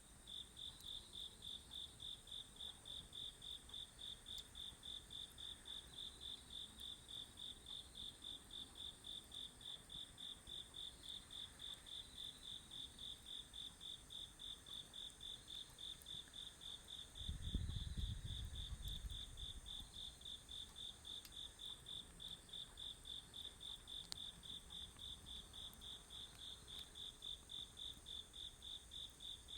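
Autumn crickets chirping in a steady, even rhythm of about two to three chirps a second, with a continuous higher insect trill behind them. A brief low rumble breaks in about halfway through.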